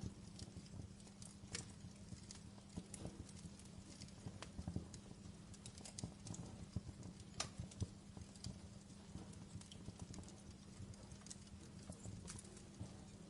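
Logs burning in a fireplace, crackling with irregular snaps and pops over a faint low steady hum. A few snaps stand out louder, the sharpest about seven seconds in.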